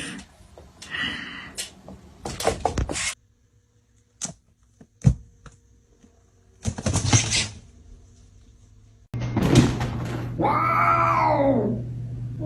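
Scattered knocks and clicks, then a domestic cat meowing: a long, drawn-out meow rising and falling in pitch near the end, with another starting just as it ends.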